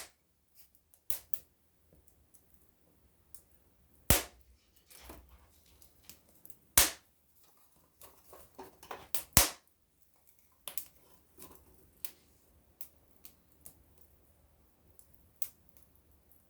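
Small wood campfire crackling, with irregular sharp pops from the burning wood: three louder snaps about four, seven and nine and a half seconds in, and lighter crackles between.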